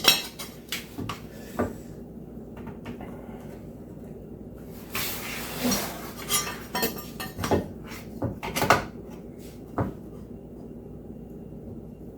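Scattered metallic clicks and knocks from a steel tape measure being pulled out, set against the wood and let go, with a short sliding hiss about five seconds in.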